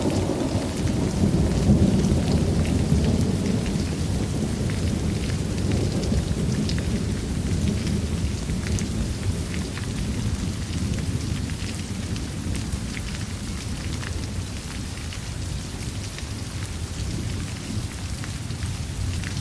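Rain falling steadily with scattered drops, under a low rumble of thunder that is heaviest at the start and slowly dies away.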